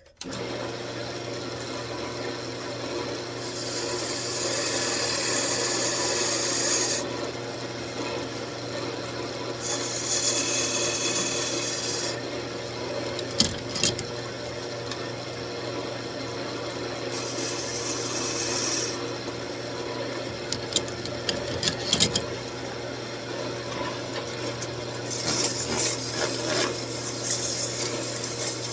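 Wood lathe running with a steady motor hum while a beading tool cuts into the spinning wood blank. There are four separate cuts, each a hiss of shaving that starts and stops, with a couple of sharp clicks between them.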